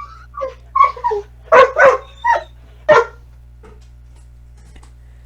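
A puppy barking and yipping, about seven short high barks in quick succession that stop about three seconds in. These are demanding barks that the owner reads as 'let me out'.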